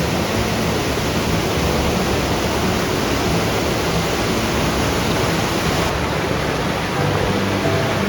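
Steady rushing of a mountain stream tumbling over rocks, a loud, even roar of water.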